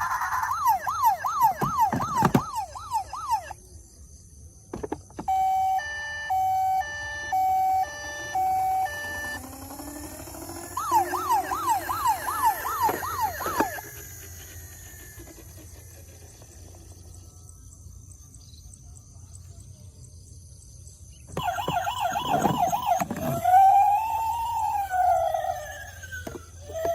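Electronic sirens from toy emergency vehicles: a fast yelping siren, then a string of beeping notes stepping between pitches, another short yelp, and near the end a yelp that turns into a slower rising-and-falling wail. There is a quieter gap in the middle with no siren.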